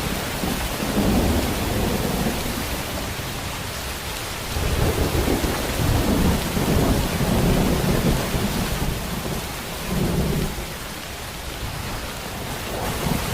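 Heavy, steady rain, with low rumbling thunder that swells and fades several times, loudest from about five to eight seconds in.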